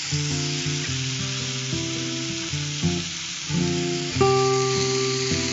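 Chopped fresh fenugreek leaves sizzling as they fry in oil in a nonstick frying pan, a steady hiss as the wet greens hit the hot oil. Background music plays over it.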